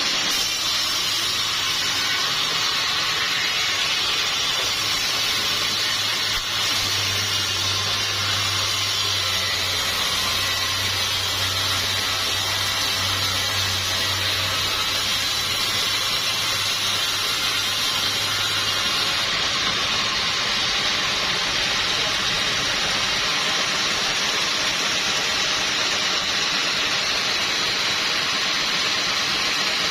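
Sawmill machinery running steadily: a constant hissing rush with a low motor hum that drops out about two-thirds of the way through.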